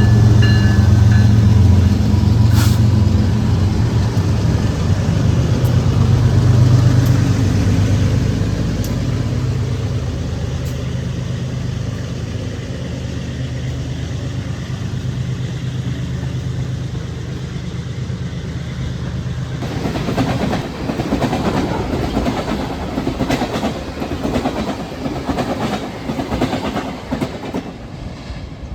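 A diesel locomotive passing close, its engine making a strong low drone that slowly eases off, with the tail of a steady horn chord in the first second or so. About twenty seconds in the engine sound gives way to the clickety-clack of railcar wheels over rail joints, fading near the end.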